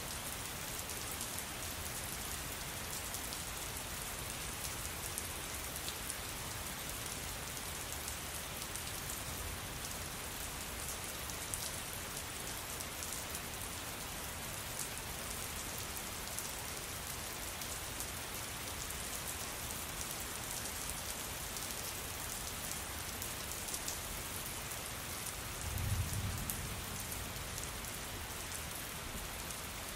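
Steady rain falling on a surface, with many fine individual drop taps. A brief low rumble rises and fades near the end.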